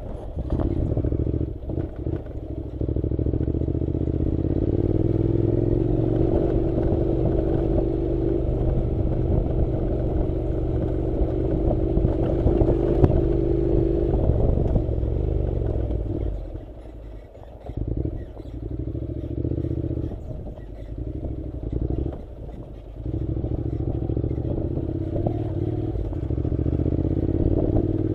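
Honda NC700's parallel-twin engine running under way on a dirt road, pulling steadily with a slight rise in pitch a few seconds in. In the second half the throttle is eased off twice and the engine falls quieter for a second or two each time before picking up again.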